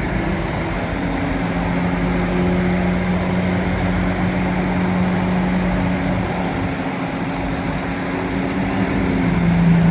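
Bulldozer's diesel engine running steadily under load with a constant hum, its pitch dropping slightly near the end.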